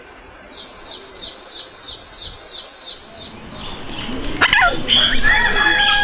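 Bird calls: a rapid series of short falling chirps, about four a second, over a steady high hiss. After about three and a half seconds a much louder, long drawn-out call comes in, with sliding notes and a held tone.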